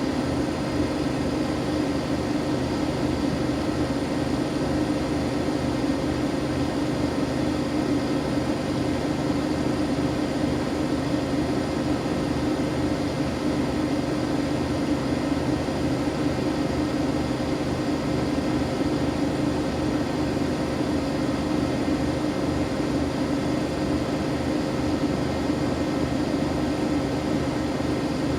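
Siemens Siwamat iQ 716 front-loading washing machine running at a steady speed, a constant motor and drum hum with a low steady tone and no pauses or changes.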